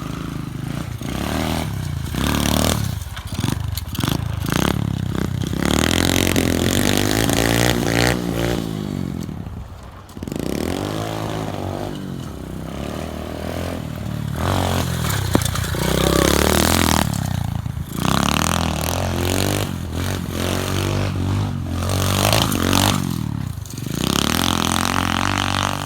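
SSR 125 pit bike's single-cylinder four-stroke engine being ridden hard, revving up and easing off again and again, with some clatter from the bike. The engine drops away briefly about ten seconds in before picking up again.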